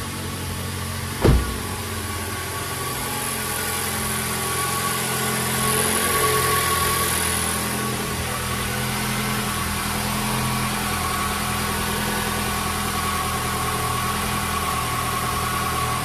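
2020 Toyota Corolla SE's four-cylinder engine idling steadily, just started on fresh oil after an oil change. A car door shuts with a single loud thump about a second in.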